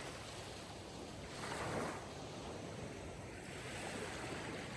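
Sea waves washing ashore: a steady rushing of surf that swells gently for a moment midway through.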